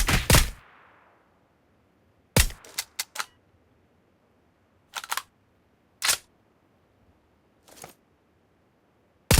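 Sharp gunshot-like cracks from a weapon being fired. A rapid burst fades out with an echo just after the start, a quick cluster of about four shots follows, then single shots spaced a second or so apart, one of them faint. A new rapid burst begins near the end.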